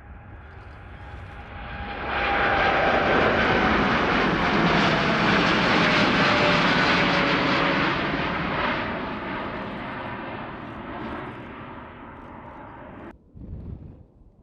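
Large jet airliner taking off, its engines at takeoff power as it passes: the jet noise swells loud about two seconds in, with an engine whine falling in pitch as it goes by, then fades and cuts off abruptly near the end.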